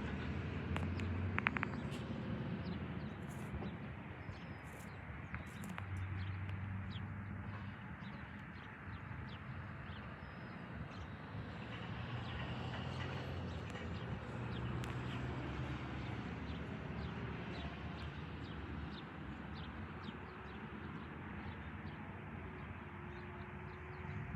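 A CSX diesel train running at a distance: a low, steady rumble, with faint short clicks and chirps over it.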